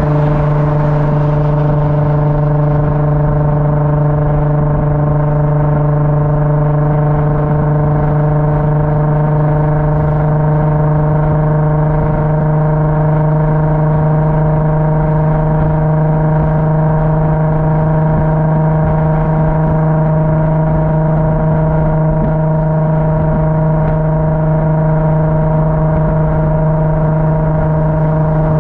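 Car engine droning steadily at constant revs: one unchanging hum with overtones over a low road rumble.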